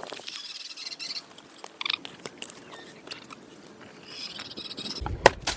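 Light crunching and crackling with scattered small clicks, like something dry and brittle being handled.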